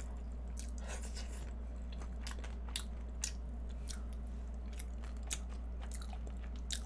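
Close-up chewing and biting of a flaky egg tart pastry shell, with scattered small crunching crackles. A steady low hum runs underneath.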